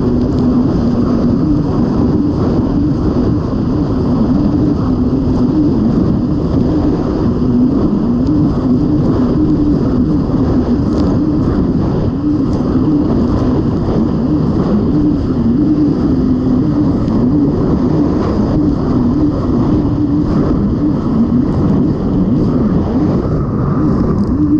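Kawasaki STX-160 personal watercraft's four-cylinder engine running hard and steadily loud, its pitch wavering up and down, with wind noise on the microphone.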